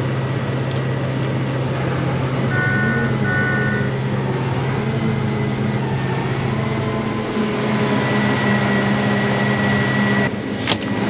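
Case 8250 combine running steadily with everything switched on, a loud, even mechanical drone with a low hum. About two and a half seconds in come two short electronic beeps, and there is a click near the end.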